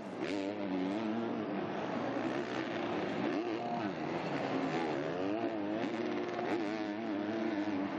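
Several 250cc four-stroke MX2 motocross bikes racing, their engines revving up and down at different pitches as the riders accelerate and back off through the track's sections.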